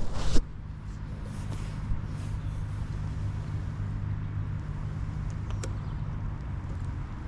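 A motor vehicle engine running with a steady low hum under a constant wash of rain and street noise. A loud, brief rush of noise comes at the very start, and the hum fades near the end.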